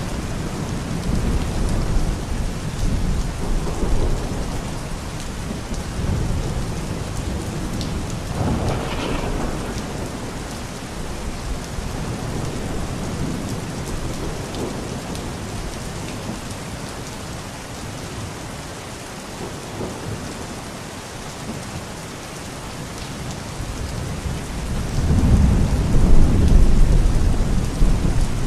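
Steady rain falling, with rolling thunder rumbling underneath; the rumble swells and fades several times, loudest near the end.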